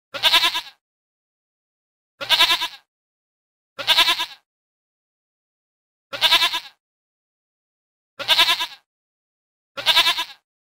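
Goat bleating: six separate wavering bleats of about half a second each, spaced roughly two seconds apart, with dead silence between them.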